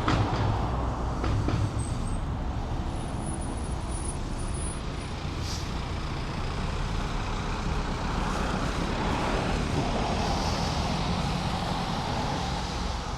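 Steady road traffic noise, swelling slightly about eight seconds in as a heavier vehicle goes by, then easing near the end.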